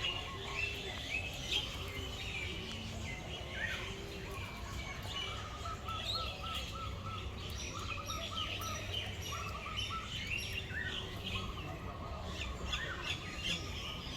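Many birds chirping and calling at once in a dense, overlapping chorus of short high notes. In the middle, one bird repeats a quick series of lower notes several times. A steady low hum runs underneath.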